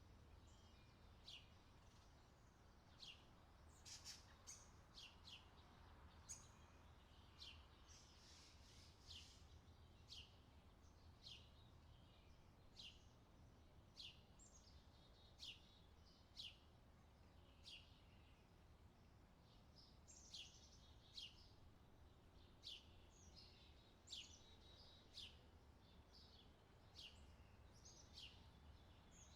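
Faint outdoor ambience of birds chirping: short, sharp chirps that drop in pitch, about one or two a second, over a steady low rumble.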